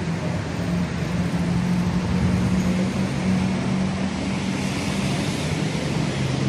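MRT Blue Line electric train running: a steady hum with a low motor tone under a hiss of wheel and air noise, the tone dropping slightly near the end.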